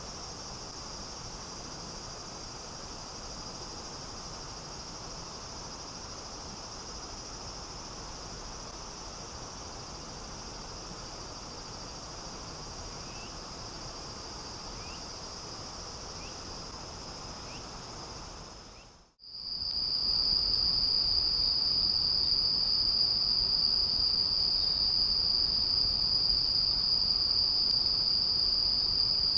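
A steady, high-pitched chorus of insects trilling without a break, over a soft even hiss of flowing water. It drops out for a moment about nineteen seconds in and comes back louder.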